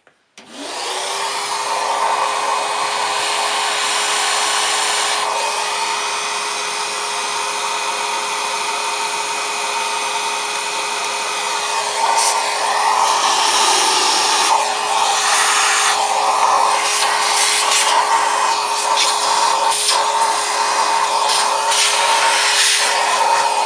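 Numatic cylinder vacuum cleaner switching on and running up to a steady whine, its crevice tool sucking fluff. From about halfway the airflow changes and breaks up as the nozzle is pushed and scraped around.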